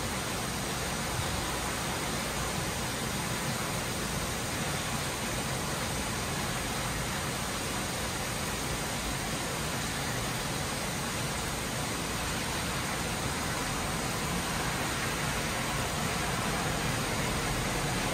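Torrential rain pouring down steadily in an even, unbroken hiss.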